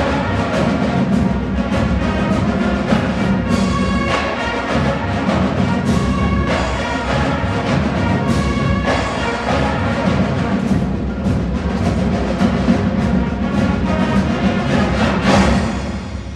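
Marching band playing loudly, brass over heavy drums with strong regular beats, the piece ending near the end.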